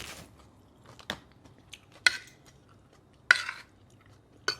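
Utensils clinking and scraping against a plate while eating, four separate knocks about a second apart, the third a short scrape.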